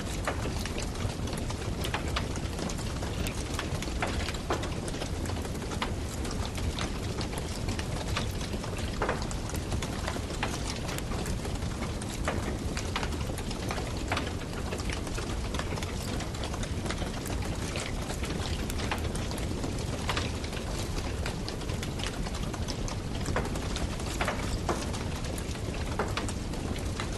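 Campfire burning: wood crackling with irregular sharp pops over a steady low rushing noise.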